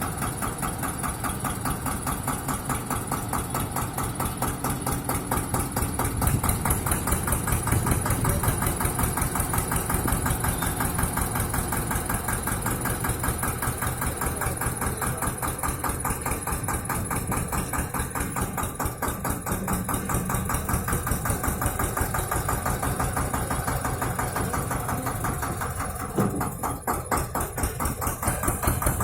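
Tractor diesel engine running steadily with a rapid, even firing beat. It gets a little louder a few seconds in and dips briefly near the end.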